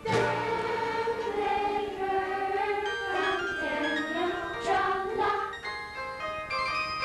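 Youth choir singing long held, wavering notes without clear words, over instrumental accompaniment.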